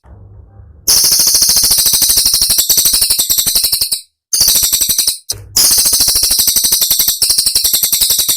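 Cililin songbird singing its sharp 'tembakan' song: long bursts of very fast, high-pitched repeated notes, about fifteen a second, broken by a few short pauses.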